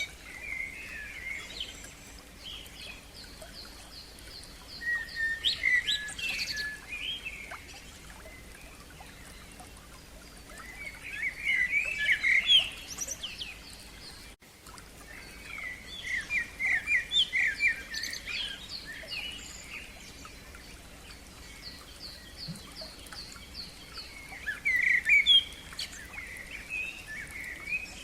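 Songbirds singing in the open: rich warbled phrases come and go every few seconds, loudest about twelve seconds in and near the end, while another bird repeats a quick series of thin high notes.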